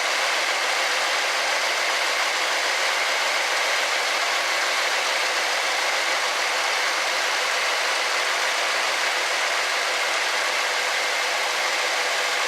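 1964 Ford Thunderbird's V8 engine idling steadily while its carburettor idle mixture screws are being turned in, tuning for peak manifold vacuum of about 18 to 18½ inches.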